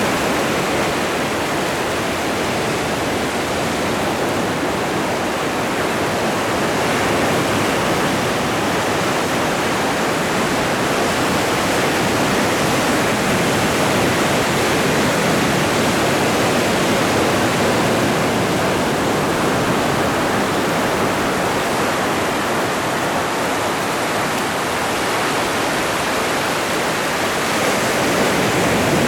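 Atlantic Ocean surf washing continuously against the shore: a steady rushing noise that swells and eases only slightly.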